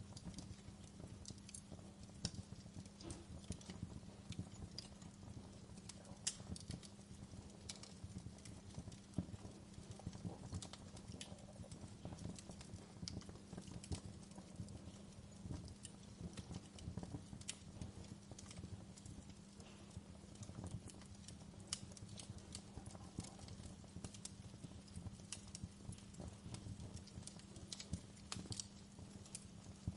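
Wood fire burning in a fireplace: irregular crackles, pops and snaps over a low, steady rumble.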